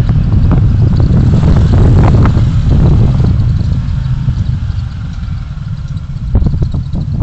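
Car driving, recorded by a dashcam: a steady low rumble of engine and road noise with a few brief thumps. It eases off a little past the middle and picks up again near the end.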